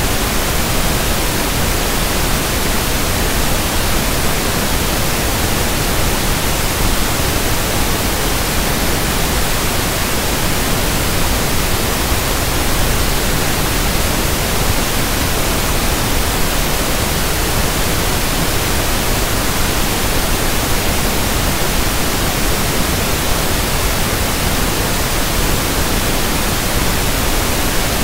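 Synthetic pink noise (1/f noise): a steady, even hiss that does not change.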